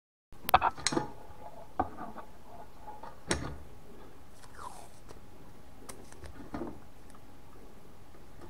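Sharp knocks and clicks from handling and working a dented metal gas mask canister: a quick cluster about half a second in, then single knocks near two, three and a half, six and six and a half seconds, over a steady hiss.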